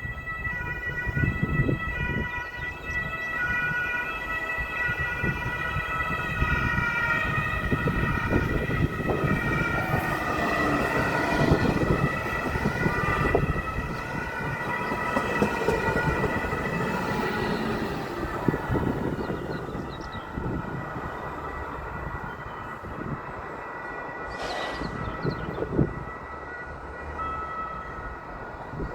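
DB Regio passenger train running on the track: a rumble of wheels on rail under a steady high whine of several tones, with some tones sliding up and down in the middle and a brief hiss near the end.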